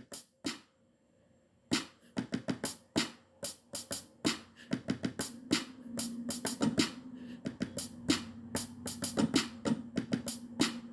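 Drum samples from an Akai MPC One, played by tapping its pads freehand in an uneven, improvised pattern. A low held note sounds under the hits from about halfway through.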